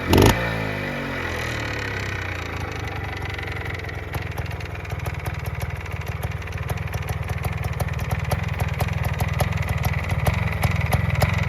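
1980 Montesa Cota 349's single-cylinder two-stroke engine blipped briefly at the start, the revs falling away over a couple of seconds. It then settles into a steady, fast, pulsing idle.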